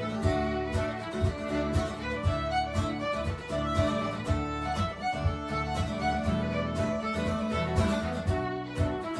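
Live fiddle tune with guitar accompaniment, played at a brisk, steady rhythm with strummed beats a few times a second.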